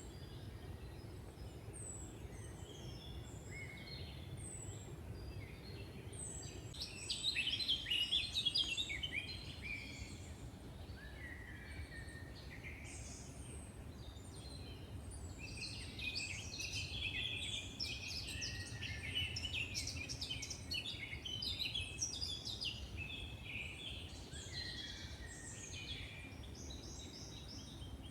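Forest songbirds singing, several birds trilling and chirping at once over a low steady background rush. The song is loudest about 7 to 9 seconds in and busiest again from about 16 seconds on.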